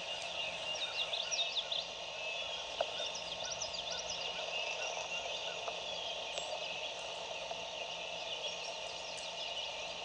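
Steady spring woodland chorus of calling frogs and insects, with a songbird's quick chirps through the first few seconds.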